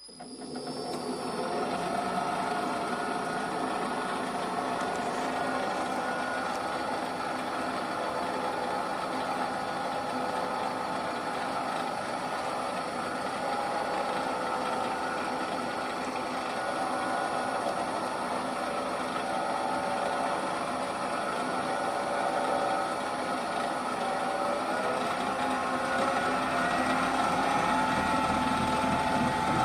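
A 1968 NS12 bench drill press, driven by a three-phase motor on a frequency inverter, starts up. It spins up over about two seconds, then runs steadily with a belt-and-spindle hum and a high whine, and its pitch rises slightly near the end.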